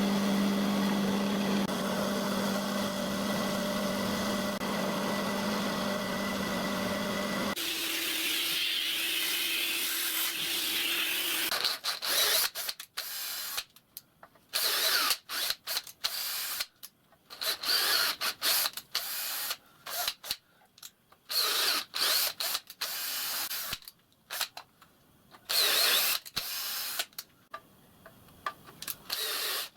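A workshop machine runs steadily with a low hum for the first several seconds. From about twelve seconds a power drill runs in repeated short bursts with brief pauses between, as when drilling holes.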